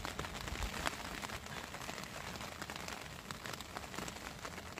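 Steady rain falling on a fabric tent, a dense even patter of small drop ticks.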